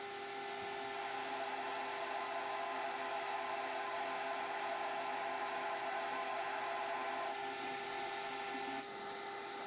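Metal lathe running with a steady motor whine while a cutting tool turns down a metal shaft, making a steady cutting hiss. The cutting noise drops off near the end.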